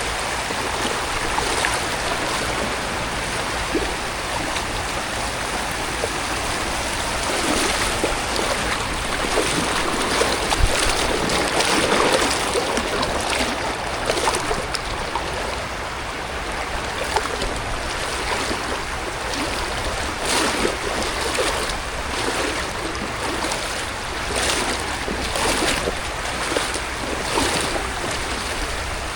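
Steady rain with rushing water. In the second half, short louder swishes come about every second.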